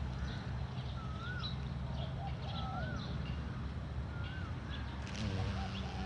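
Garden birds calling: one repeats a short rising-and-falling whistle about every second and a half among other chirps, with a harsher call about five seconds in, over a low steady hum.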